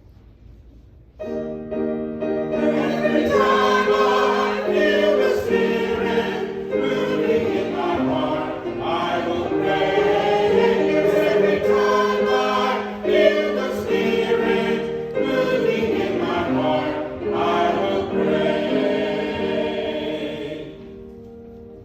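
Church music of slow, held chords in a hymn-like style, starting suddenly about a second in and fading out near the end.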